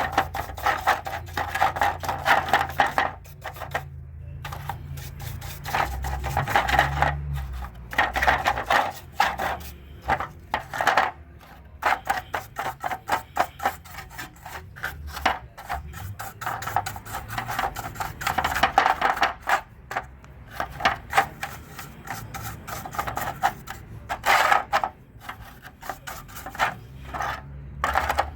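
Rapid back-and-forth rubbing and scraping strokes in runs of a few seconds with short pauses between them, over a steady low hum.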